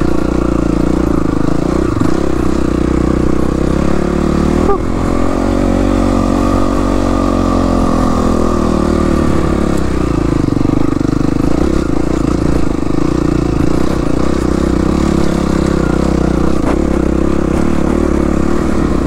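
Yamaha WR450F's single-cylinder four-stroke engine running steadily while riding, its pitch rising and falling a little between about five and ten seconds in. A short knock sounds about five seconds in.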